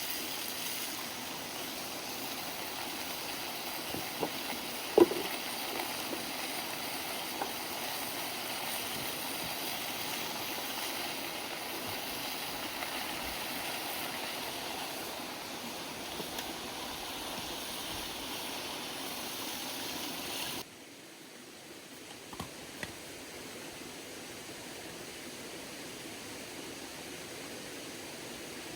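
River water flowing as a steady rush, with a few sharp clicks, the loudest about five seconds in. About two-thirds of the way through it cuts off abruptly to a quieter, steady hiss.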